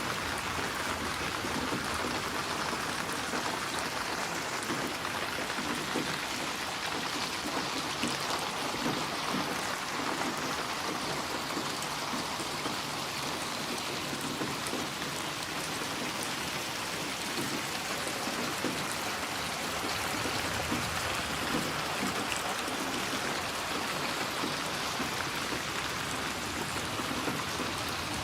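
Steady rain falling, with the patter of drops on surfaces.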